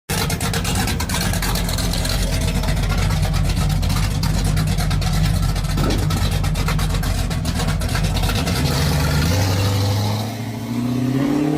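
A car engine running loudly with a rapid, even firing beat over a deep rumble. Near the end, rising pitched tones come in.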